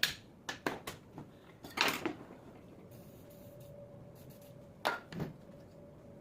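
A series of sharp clicks and knocks from hard objects being handled and set down: several in the first second or two, then two more about five seconds in. A faint steady hum starts about halfway.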